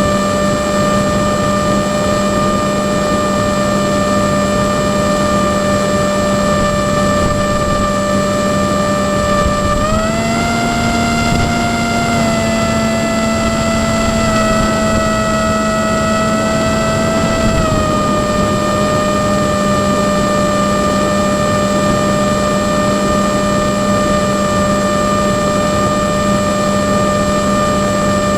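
Drone motors and propellers whining with a steady pitch. The pitch rises about ten seconds in, holds a little higher, then drops back to the earlier note at about eighteen seconds.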